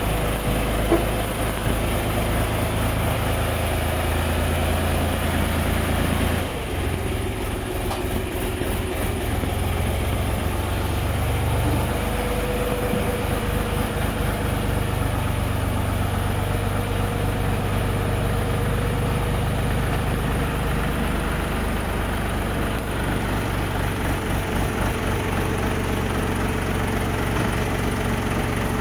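Minitractor engine running at a steady idle, with a brief change in its sound about six and a half seconds in.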